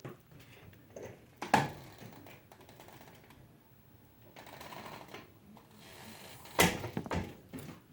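A few sharp clicks and knocks: a loud one about a second and a half in and a quick cluster near the end, with faint shuffling between them.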